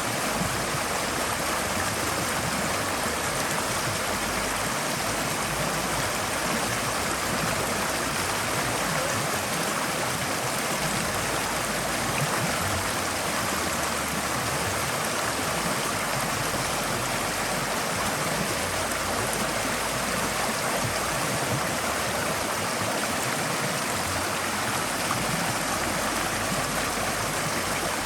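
Forest stream flowing steadily over rocks: a constant rush of running water with no breaks.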